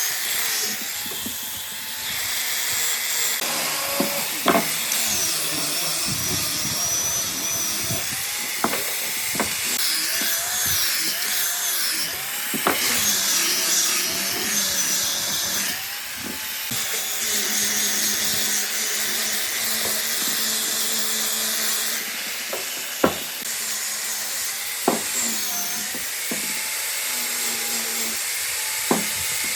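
Woodworking tool sounds: a steady hiss with scattered sharp knocks and clicks, changing abruptly every few seconds.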